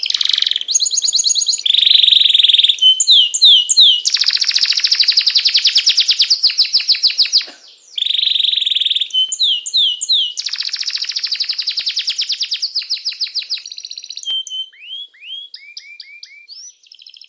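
A songbird singing in rapid high trills and quick downward-sweeping chirps. About halfway through, the same sequence starts over, so it plays twice, then it thins out into scattered chirps near the end.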